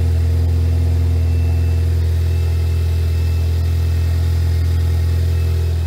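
Turbocharged Chevrolet hatchback engine idling steadily, a low even hum with no change in pitch, on its first run after a new turbo, intake and charge pipes were fitted.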